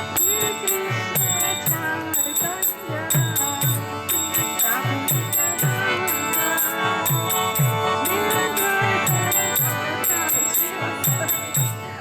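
Kirtan music without singing: a two-headed hand drum, typical of a mridanga, plays bass strokes that fall in pitch, while small hand cymbals (karatalas) clash in an even rhythm over sustained tones.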